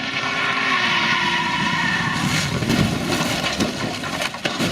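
Road vehicle noise: a pitched sound with several overtones that falls slightly over the first two seconds, then a rough rumbling noise with a few sharp knocks near the end.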